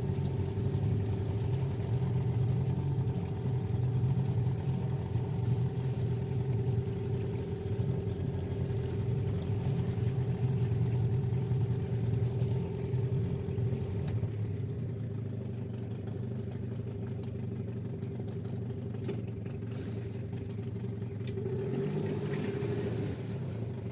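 Sea Pro 9.9 two-stroke outboard motor running steadily. Its note eases a little just past the middle and picks up again near the end.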